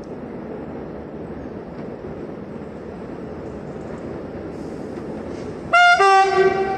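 A train's steady rumble, then near the end a loud two-tone horn: a short high note followed by a lower note held for about a second.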